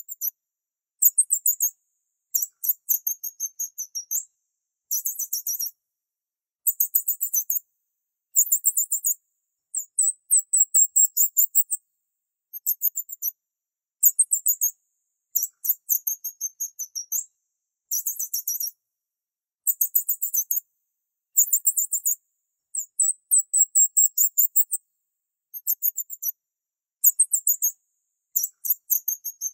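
Very high, thin bird chirping in rapid trills of about eight to ten pulses a second, coming in bursts of about a second with short gaps between them. There is no low cooing.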